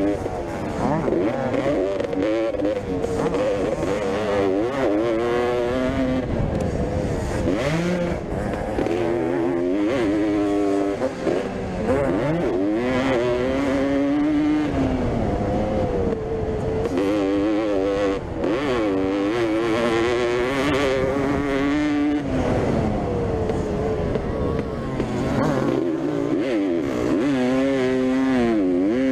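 Vintage motocross bikes racing on a dirt track, their two-stroke engines revving up and falling back over and over as they shift and take the jumps and corners. Several bikes are heard at once, their pitches crossing.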